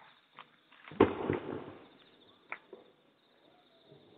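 Distant aerial firework shell launched from its mortar: a single dull thump about a second in, dying away over most of a second, followed by a faint sharp tick about a second and a half later.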